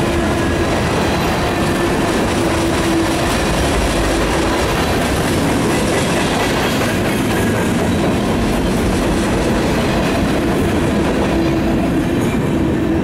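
Loaded freight train's covered hopper cars rolling past, a steady rumble of steel wheels on rail with clickety-clack from the rail joints. A thin whining tone from the wheels comes and goes near the start and again near the end.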